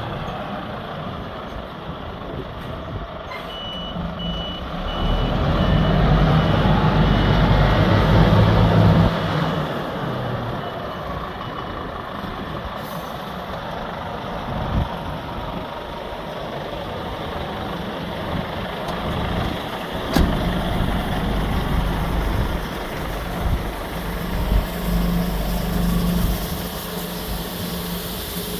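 Scania P 280 fire truck's diesel engine running as it manoeuvres, louder for a few seconds near the start, with its reversing alarm beeping in a steady row of short high beeps for several seconds.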